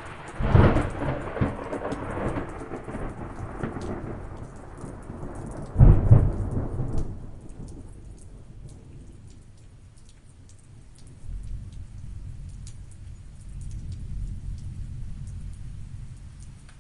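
Thunder breaks about half a second in and rolls on, with a second sharp, louder clap near the middle before it dies away. A lower, softer rumble follows later. Steady rain patters throughout.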